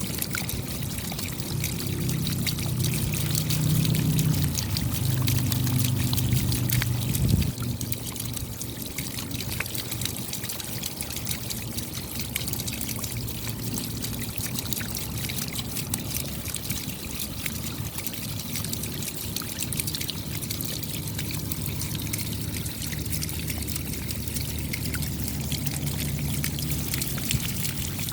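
Steady rain: a dense patter of raindrops with water trickling and pouring. Under it a low hum swells over the first few seconds and again near the end, and there is a single knock about seven seconds in.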